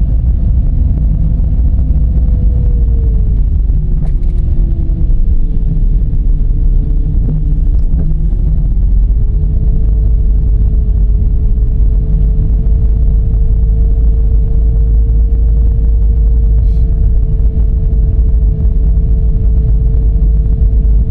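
Dodge Charger V6 car driving, with a steady low road-and-engine rumble. A single whine drops in pitch a few seconds in as the car slows, then rises again and holds steady as it picks up speed.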